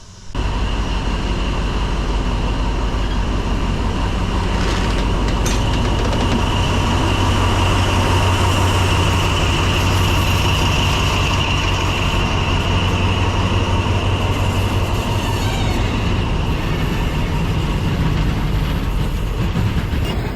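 Train passing close by on the railway line: a loud, steady rumble of wheels on the track with a high whine over it, starting abruptly just after the start.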